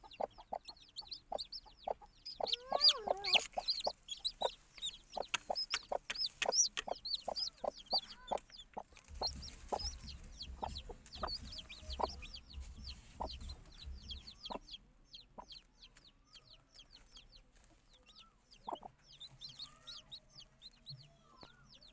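Chickens clucking in rapid runs of short clucks, with many quick high chirps over them. The clucking thins out after about fifteen seconds.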